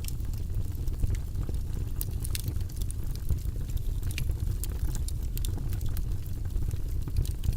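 Wood fire in a fireplace burning with a steady low rumble and frequent sharp crackles and pops.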